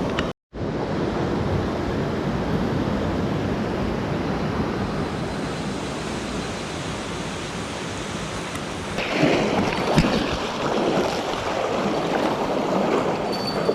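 Steady rushing of a swollen mountain stream, broken by a moment of total silence just after the start. About nine seconds in the rush grows louder and rougher, with a single sharp knock a second later.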